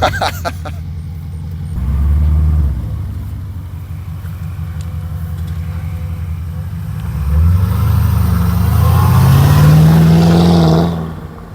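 Porsche Cayenne Turbo's 4.5-litre twin-turbo V8, exhaust muffler removed, under throttle while driving. There is a short burst about two seconds in, then a longer pull from about seven seconds in with the engine note rising in pitch, cut off just before the end.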